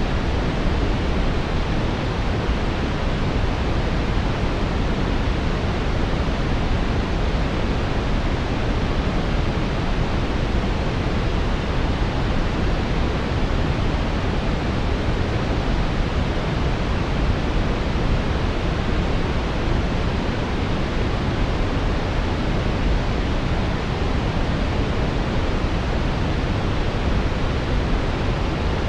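Steady, unbroken brown noise: a smooth, deep rushing hiss, strongest in the low end, with no changes or events.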